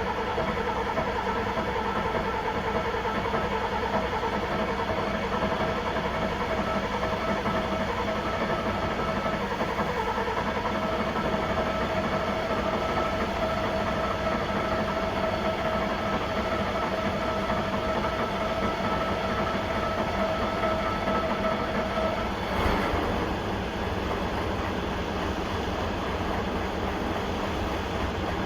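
1972 O&K V12 diesel engine running steadily. A steady whine over the engine note stops suddenly about three-quarters of the way through, just after a brief swell in loudness, leaving the engine running a little quieter.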